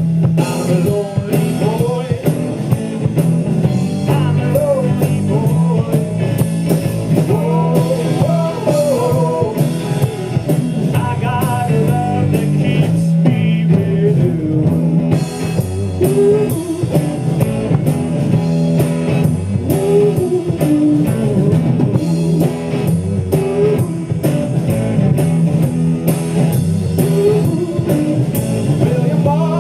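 Live rock band playing a blues-rock instrumental passage: electric guitars over bass and drum kit.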